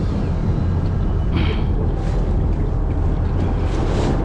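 Fishing boat's engine running with a steady low drone; a few brief hisses sound over it.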